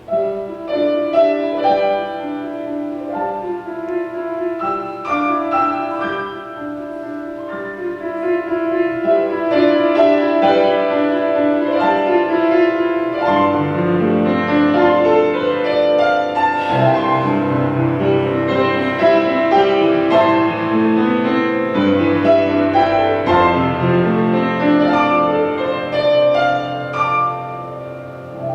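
Instrumental piano music: a flowing melody, with lower bass notes coming in about halfway through.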